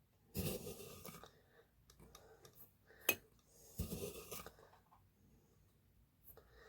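Spoon digging granulated sugar out of a heavy jar, making faint crunching scrapes in two short bursts. A sharp clink comes about three seconds in.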